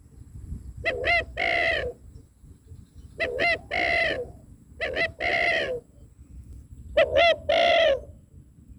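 White-breasted waterhen (ruak-ruak) calling: four loud phrases, each two short notes followed by a longer one, repeating about every two seconds.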